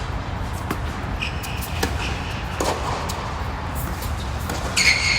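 Tennis ball struck by rackets in a doubles rally: a few sharp hits at uneven spacing, with a high squeak near the end, over a steady low rumble.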